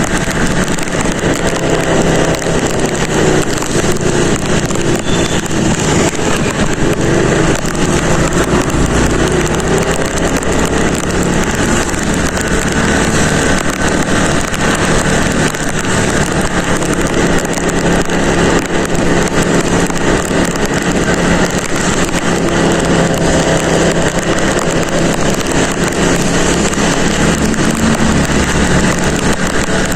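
A motorcycle engine runs steadily while riding, under a loud, even rush of wind and rain noise on the microphone.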